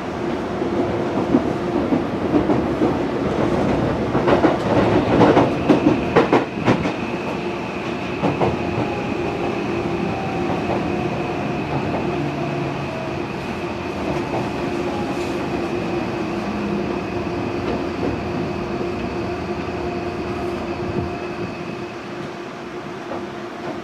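Tokyo Metro 18000 series electric train heard from inside the car while slowing: the wheels clatter over rail joints in the first several seconds. Then the Mitsubishi full-SiC inverter and permanent-magnet motors give a faint whine that falls slowly in pitch under braking, over steady running noise.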